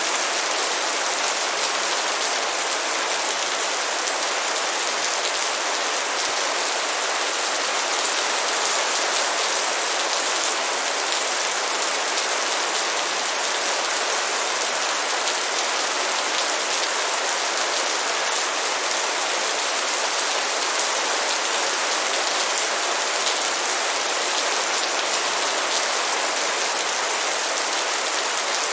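Steady rain falling, an even hiss of many small drops that holds the same strength throughout.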